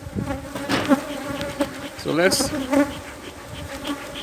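Honeybees buzzing in a steady drone around an opened hive, from colonies that are a little aggressive.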